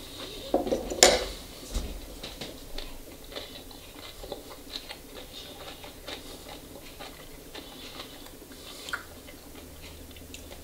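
Cutlery clinking and scraping in a bowl about a second in, then a person chewing a mouthful of crunchy vinegar-pickled cabbage slaw (Haitian pikliz), with many small, irregular crunches.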